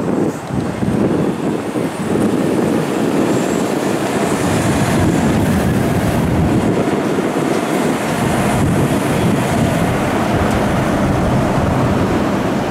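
Tokyu electric commuter train running past on an elevated track: a steady rumble of wheels on rail, growing louder about two seconds in and holding.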